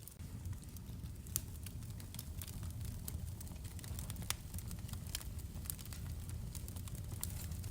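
Wood fire crackling in a fireplace: a steady low rumble of the flames with scattered sharp pops and snaps, two of them louder, about a second and a half and four seconds in.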